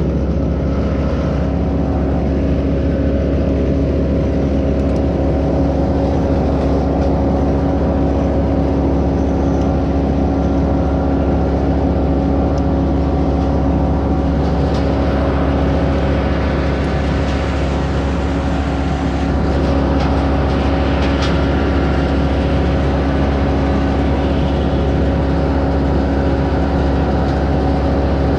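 An engine running steadily at constant speed, with an even hum that holds throughout.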